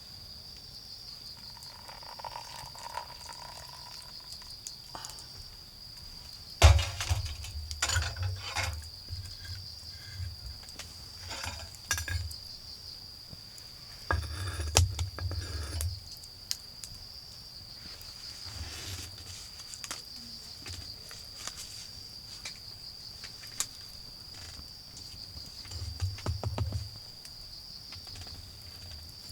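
Autumn crickets trilling steadily and high-pitched. Brief clusters of crackles and knocks come near the fire about seven seconds in, again around fifteen seconds, and near the end.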